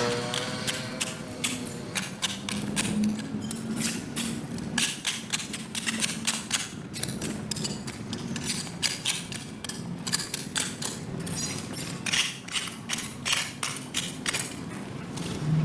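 Repeated uneven scrapes and knocks of hand tools working mud and debris on pavement.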